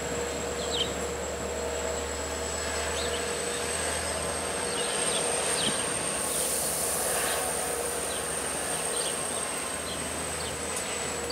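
A diesel-hauled LIRR bilevel train standing idle at the platform: a steady mechanical hum with a constant high-pitched whine, swelling slightly with a rise in hiss about six seconds in.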